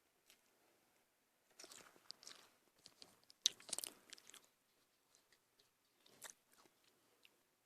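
A person chewing and biting food, with faint, crackly crunching that comes in bursts at about a second and a half, about three and a half seconds (the loudest) and about six seconds in.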